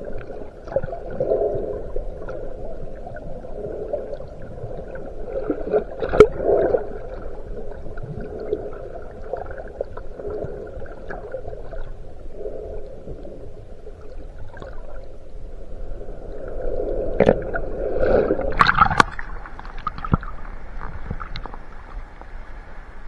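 Muffled underwater wash of wave surge heard through a camera housing, swelling and ebbing, with a few sharp knocks about six seconds in and again near the end.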